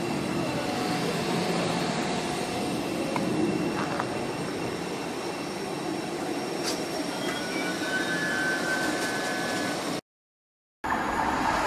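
Thameslink Class 700 electric multiple unit pulling away along the platform: a steady rumble of wheels and traction, with a faint thin whine near the end. After a brief cut to silence, a louder rush of another train approaching begins.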